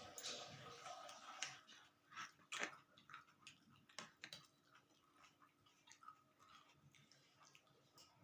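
Faint chewing and eating mouth sounds, with scattered soft clicks and smacks, a few stronger ones a couple of seconds in.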